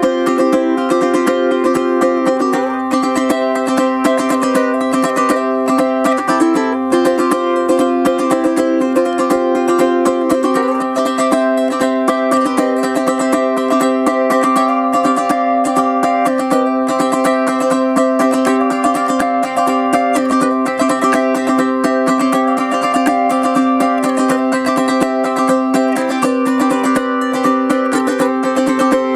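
Anuenue UT214 Cedar Bird tenor ukulele (cedar top, Indian rosewood back and sides, nylon strings, high-G tuning) being strummed. A steady low note rings throughout under a melody that keeps changing.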